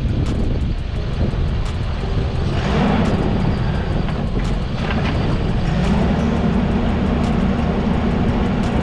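Toyota Land Cruiser 80-series engine running as the truck drives through a shallow river crossing, a steady low rumble with a louder rushing noise from about two and a half seconds in that lasts a couple of seconds.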